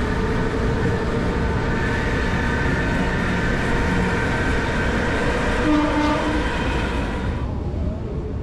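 Heritage train running on the rails, heard from inside the carriage through an open window: a steady rumble of wheels and running gear with a held whine over it. The whine and the higher noise drop away about seven seconds in as the train slows into a station.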